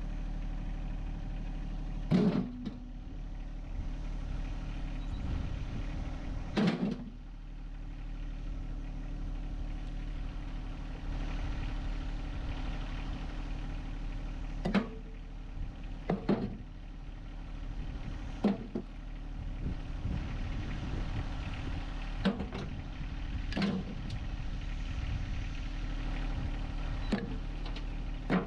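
John Deere 1025R compact tractor's three-cylinder diesel engine running steadily, with about eight sharp metallic clanks at irregular intervals a few seconds apart.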